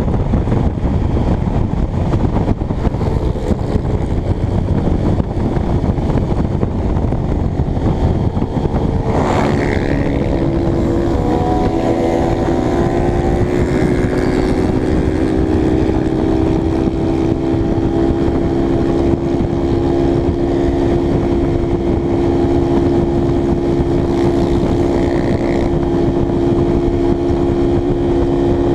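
Motorcycle engine, a Honda CBX 250 Twister single-cylinder, running at speed under dense low wind rumble on the microphone. About ten seconds in the engine note settles into a steady drone at constant revs.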